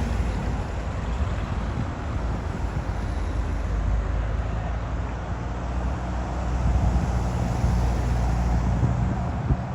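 A vehicle engine running at a steady low pitch, with wind noise on the microphone; the engine gets louder about six seconds in.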